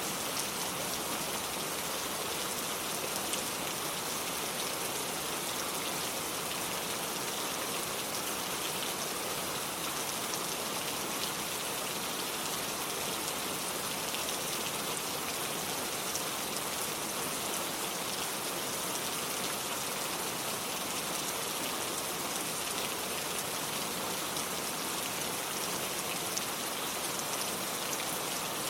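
Steady rainfall: an even hiss of rain with many small drop hits and no let-up.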